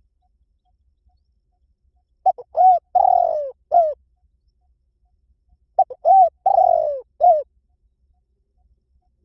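Spotted dove cooing: two phrases of a few short notes each, with a longer falling coo in the middle, a few seconds apart. It is the excited 'kích bổi' coo used to rouse decoy doves.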